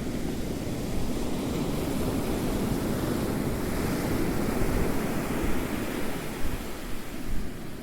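Ocean surf: a wave swells in about a second in, is loudest midway, and recedes near the end.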